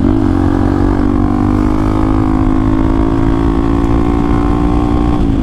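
Hero Xpulse 200 4V's single-cylinder engine running through an aftermarket Akrapovic exhaust while riding at a steady pace. The engine note dips briefly and picks up again right at the start and once more near the end.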